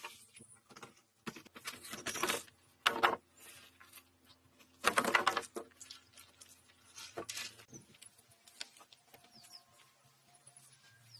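Irregular bursts of rustling and scraping handwork noise a second or two apart, the loudest about five seconds in, with faint scattered clicks between.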